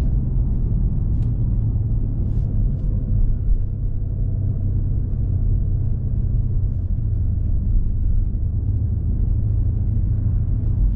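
BMW M5 Competition (F90) twin-turbo 4.4-litre V8 and tyres while driving at a steady pace, a constant low engine and road noise with no clear revving.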